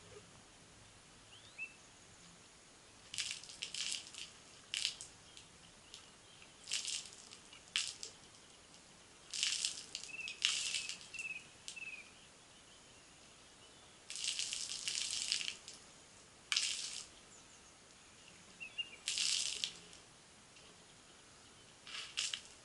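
Birds calling: repeated harsh, scratchy bursts of varying length, with a few short high chirps in between.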